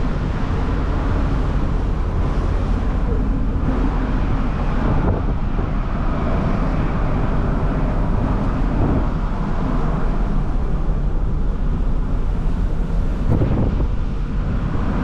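Wind buffeting the microphone over the steady low rumble of a ferry under way at sea.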